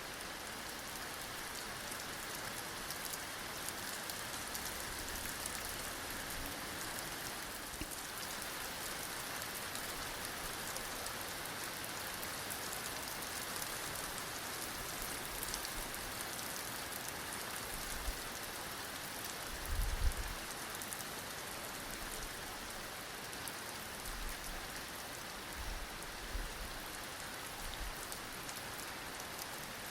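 Steady heavy rain falling on surfaces: a dense, even hiss. A few brief low thumps come in about two-thirds of the way through.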